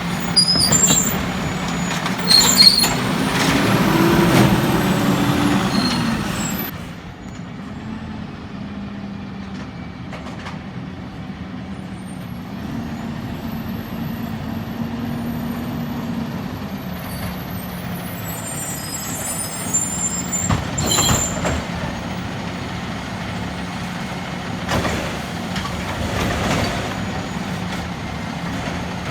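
Peterbilt 320 garbage truck engine running with a steady hum. It runs louder for the first six seconds or so, then drops to a quieter run, with a few short sharp sounds later on.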